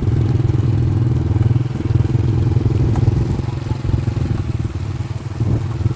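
A motor vehicle's engine running steadily while driving, easing off slightly near the end.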